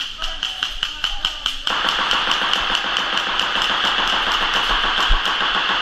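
Airsoft guns firing in a fast run of sharp clicks, about seven a second. About two seconds in, a steady rushing noise joins the clicks and carries on.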